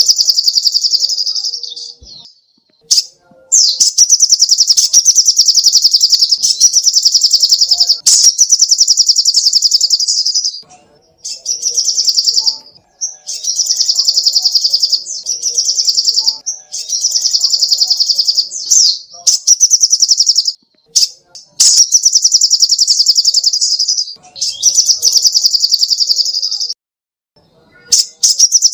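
Little spiderhunter (sogok ontong) singing: bouts of very rapid, evenly repeated high notes, each lasting one to three seconds, broken by short pauses.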